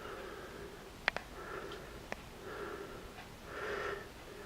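A person breathing and sniffing close to the microphone, soft puffs about once a second, with three sharp clicks around one and two seconds in.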